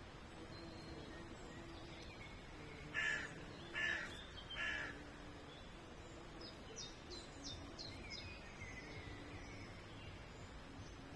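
A crow cawing three times in quick succession, harsh calls a little under a second apart. A few seconds later a small songbird gives a quick run of short, high chirps.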